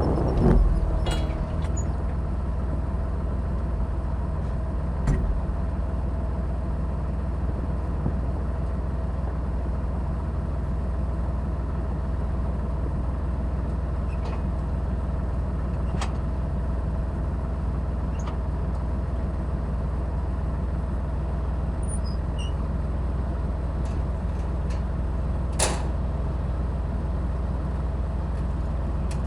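John Deere 8410 tractor's six-cylinder diesel engine running steadily with a deep drone, with a few sharp clicks and knocks here and there.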